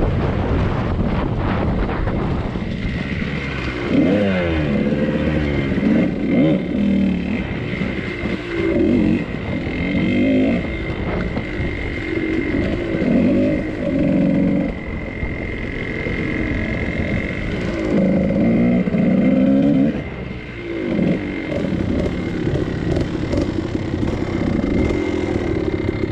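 Two-stroke dirt bike engine running, revved up and down in repeated swells of rising and falling pitch.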